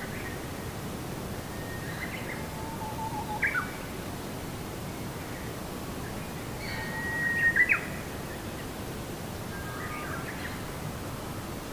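Birds chirping and calling in short whistled phrases over a steady low background noise, loudest about three and a half and seven and a half seconds in.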